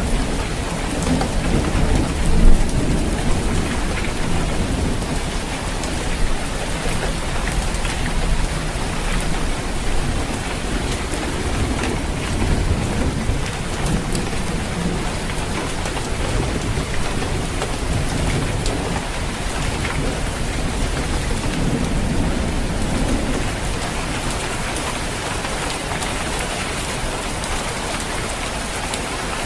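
Steady rain falling on a roof, with low rumbles of thunder near the start and again about twenty seconds in.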